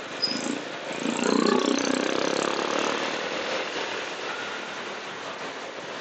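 Motorcycle engine and traffic noise heard while riding on the road. It swells louder about a second in, then eases back over the next couple of seconds.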